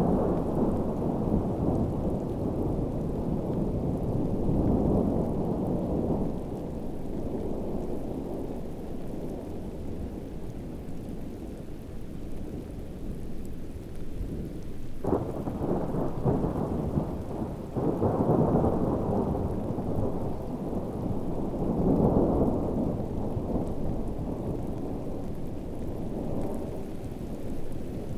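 Heavy rainstorm with rolling thunder: deep rumbles swell and fade several times, with a sharp crack about fifteen seconds in, over steady rain.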